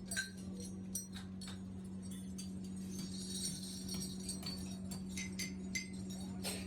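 Workshop machine motor humming steadily, with irregular metallic clinks and jingling of small metal parts.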